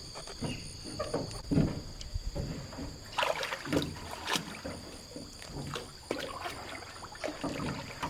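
Water splashing and sloshing in irregular strokes close by. High insects chirr steadily behind it.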